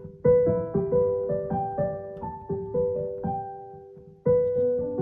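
Background music: a gentle solo piano melody of single sustained notes, with a new phrase beginning near the end.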